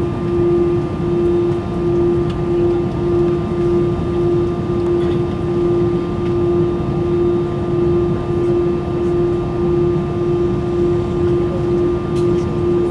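Cabin noise inside an Airbus A320-200: a steady jet-engine drone over a low rumble, with a constant hum that pulses slightly.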